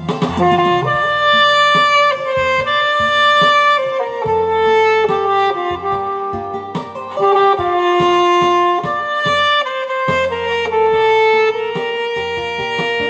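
Alto saxophone playing a slow, legato melody in held notes over a backing track with a bass line.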